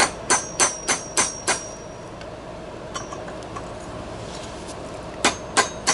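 Hammer striking the brass cartridge tube of a Price Pfister faucet body laid on a vise anvil: six quick ringing metal blows, about three a second, then a pause and three more near the end. The blows stretch the brass tube and break up the built-up sediment so the stuck cartridge can be pulled out.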